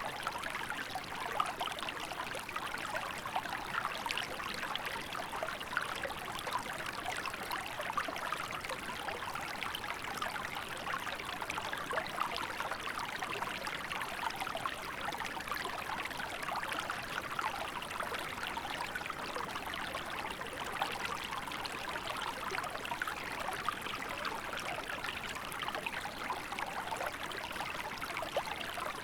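Small river running steadily over rocks, a continuous babbling and trickling of water with many small splashes.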